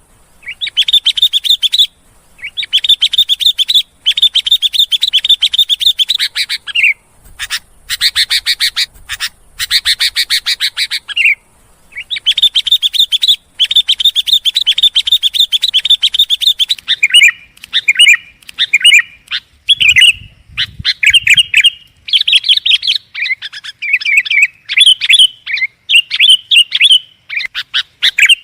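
Sooty-headed bulbul (kutilang) calling: long runs of fast, chattering notes broken by short pauses, changing to shorter separate phrases in the last third.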